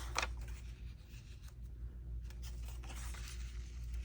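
Paper sheets being handled and rustled, in short soft strokes with two crisper ones right at the start, over a steady low hum.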